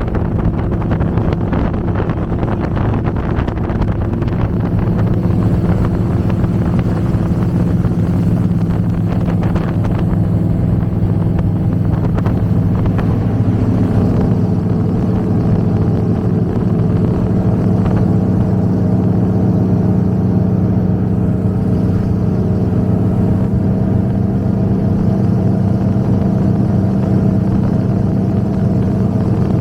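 Twin big-block V8 engines of an Avanti 33 powerboat running steadily under way, a loud, even drone.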